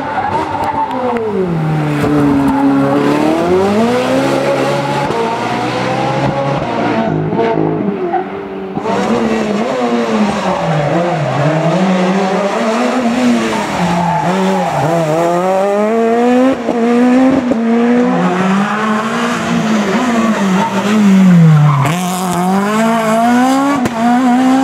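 Rally car engines revving hard, pitch swinging down and up many times as the cars brake, shift gear and accelerate through corners on a tarmac stage.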